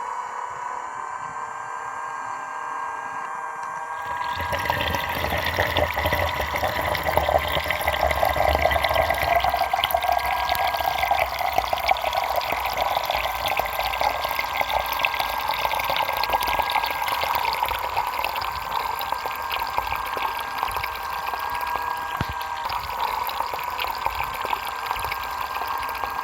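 Small DIY mini water pump running with a steady high motor whine, its water starting to pour and splash about four seconds in and then flowing steadily.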